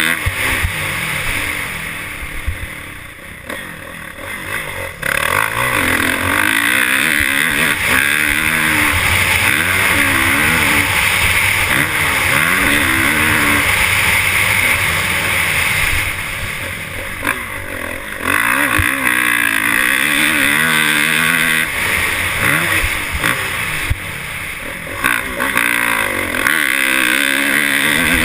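Motocross bike engine revving up and down again and again, with a loud rushing noise over it that drops away briefly a few times.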